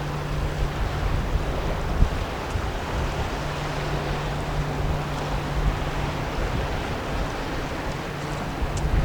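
Wind buffeting the microphone over a steady low engine drone from a passing 140-ft Coast Guard icebreaking tug. The drone drops out about half a second in and comes back at about three and a half seconds.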